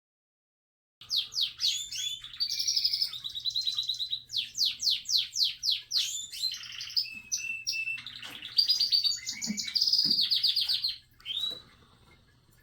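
A small songbird singing: rapid high trills and warbled whistled phrases, starting about a second in and breaking off shortly before the end.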